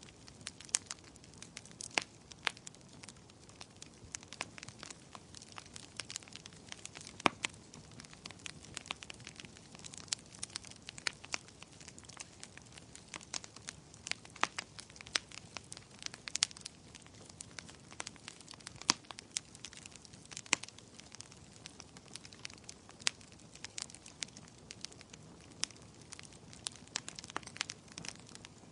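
Wood fire crackling and popping: irregular sharp snaps over a soft low hiss of flames.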